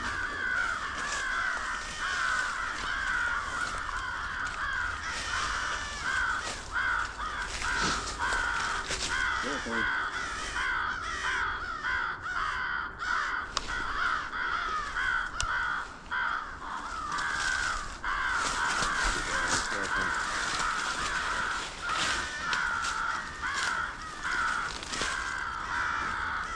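Crows cawing in a dense, overlapping chorus, several harsh caws a second without a break.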